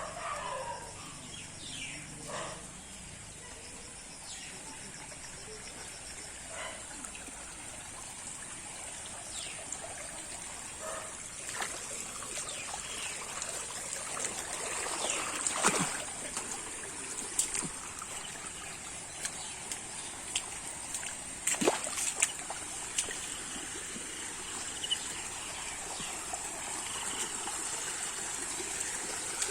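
Floodwater flowing and trickling steadily, with occasional splashes, growing slowly louder through the stretch.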